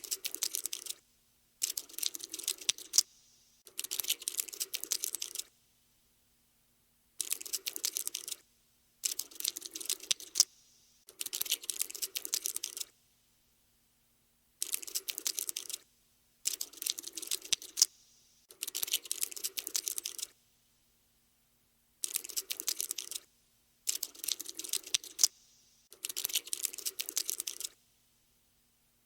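Cockroach scuttling sound effect: bursts of rapid, dry, keyboard-like clicking, each about a second long, coming in groups of three with short silences between the groups.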